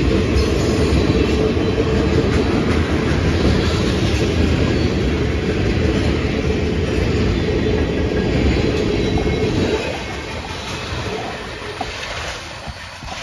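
Freight train cars, tank cars and covered hoppers, rolling past with their steel wheels running on the rails in a steady, loud noise. About ten seconds in, the sound drops to a quieter, thinner level as the cars keep passing.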